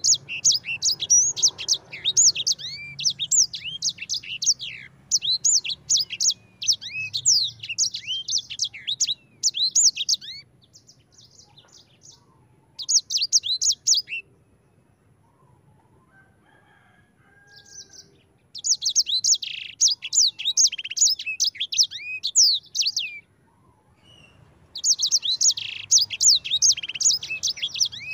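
A sanger songbird singing a fast, continuous warbling song of high, quick chirps and trills. The song comes in long bouts with a few quiet breaks of several seconds.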